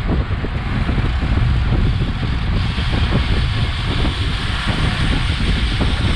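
Wind buffeting an action camera's microphone on a bicycle at racing speed: a loud, uneven low rumble, with a higher hiss growing stronger about two and a half seconds in.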